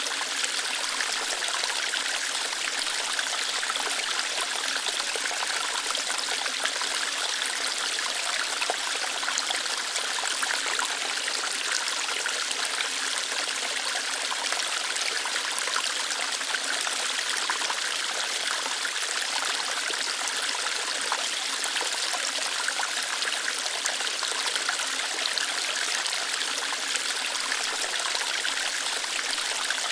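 A small waterfall flowing lightly over rocks, a steady splashing rush that is brighter than it is deep and never changes.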